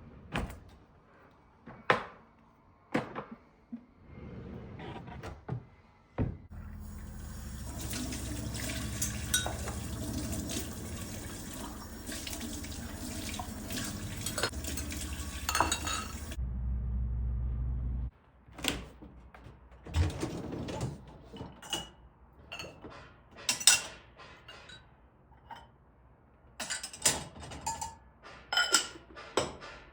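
Kitchen tap running into a sink for about ten seconds, after a few scattered clicks and knocks, then shut off. A short low rumble follows, then dishes and cutlery clinking and knocking.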